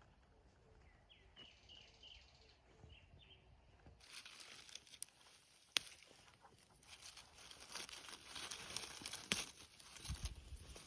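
A few faint bird chirps, then from about four seconds in a rustling, crackling noise with several sharp snaps, like footsteps and hands moving through dry leaves and undergrowth.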